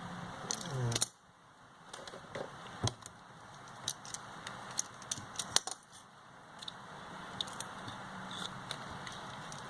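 Small metal hand tools clicking and tapping as they are handled on a workbench, scattered sharp clicks over a steady background hum that cuts out about a second in and slowly returns.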